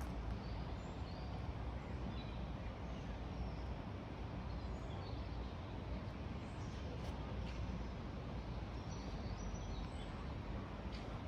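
Outdoor background noise, a steady low rumble, with faint bird chirps scattered throughout.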